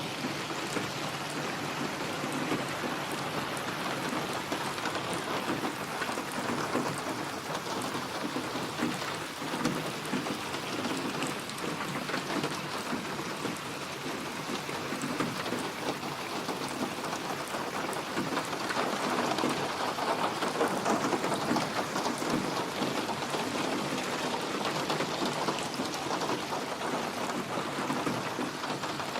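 Steady heavy rain: a dense patter of drops hitting a surface, swelling a little louder about two-thirds of the way through.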